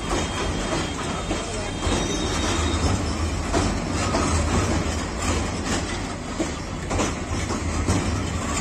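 Intercity passenger coaches rolling over a steel girder rail bridge: a steady rumble with irregular clacks of the wheels over rail joints, and a faint high squeal during the first two seconds or so.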